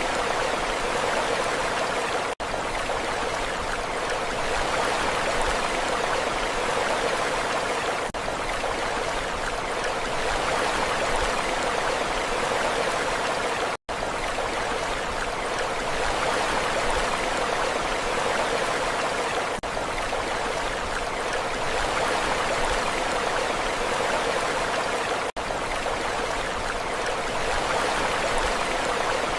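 Steady rushing water, an even hiss with no rise and fall of waves, broken by brief dropouts about every six seconds where the looped recording joins.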